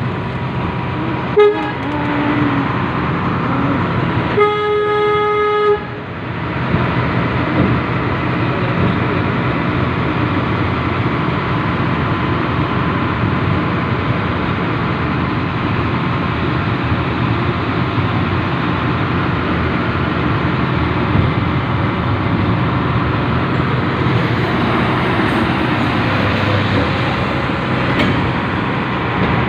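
Steady running noise of the molten-nickel train, heard from on board. About four seconds in, the locomotive's horn sounds once for about a second and a half and cuts off sharply.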